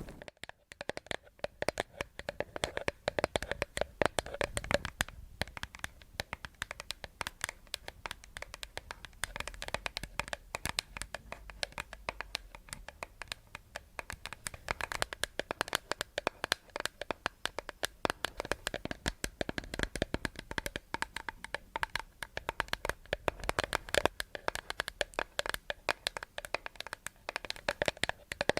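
Close-up ASMR tapping and scratching on a hard object: a steady stream of fast, irregular clicks and taps.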